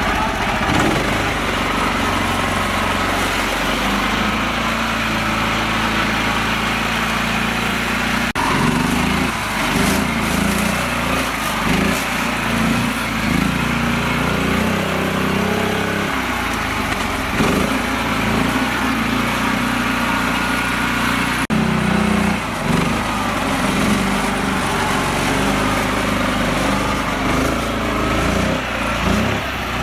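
Mini tractor's small engine running continuously, its pitch and load shifting as it works, with abrupt breaks about 8 and 21 seconds in.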